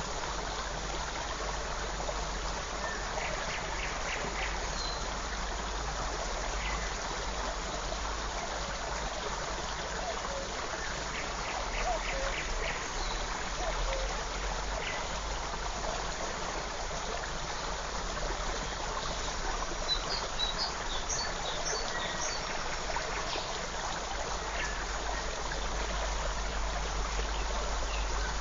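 Small forest stream running steadily over stones, with faint bird chirps scattered through it and a brief cluster of high chirps about two-thirds of the way through.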